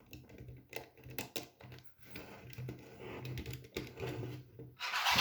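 Plastic Lego bricks clicking and rattling as they are handled and fitted together: a run of light, irregular clicks, with a louder rustling clatter near the end.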